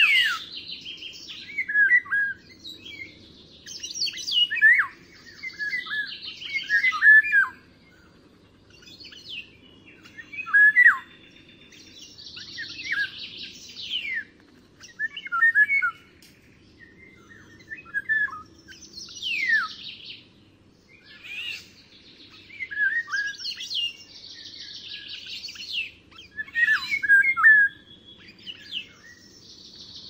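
Wild birds singing: short phrases of chirps and quick down-slurred whistles, one every second or two.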